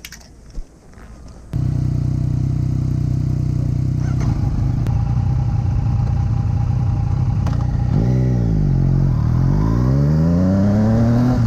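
Yamaha MT-09 three-cylinder engine through an Akrapovic carbon full exhaust. It comes in suddenly about a second and a half in and runs at a steady speed, then about eight seconds in the revs dip briefly and climb steadily as the bike accelerates.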